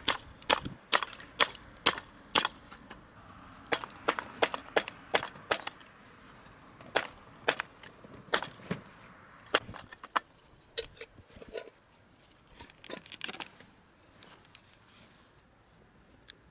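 Repeated sharp wooden knocks, about two a second at first, then fewer and fainter over the second half.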